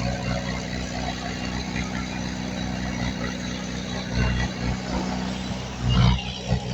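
Heavy diesel engine of earthmoving machinery running steadily, with two louder surges about four and six seconds in.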